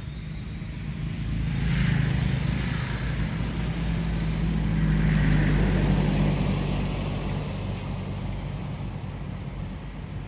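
Motor vehicles passing on a road: a steady low engine hum with tyre and engine noise that swells twice, about two seconds in and again around five to six seconds in, then fades.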